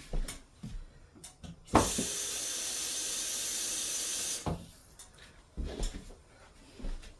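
Kitchen faucet turned on, running for nearly three seconds, then shut off, with a knock as it starts and stops. It is drawing water to top up a pot of black-eyed peas. Light knocks of handling pots come before and after.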